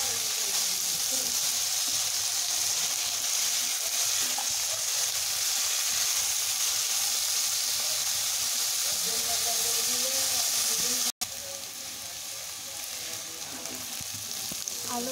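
Julienned potatoes and onions sizzling as they fry in hot oil in a karai, with a spatula stirring and scraping through them. The sizzle breaks off for an instant about eleven seconds in and continues a little quieter.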